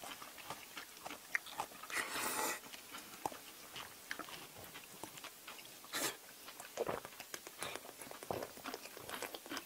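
Close-miked eating sounds: soft wet chewing with many small mouth clicks. A few short louder bursts stand out, the loudest about two seconds in and another about six seconds in.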